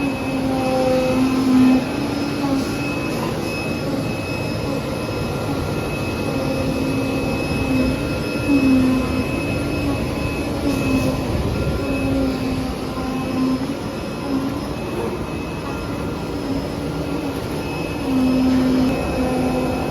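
CNC leather and fabric cutting machine running: a steady rushing mechanical noise with a motor hum that breaks off and shifts in pitch every second or two as the cutting head moves.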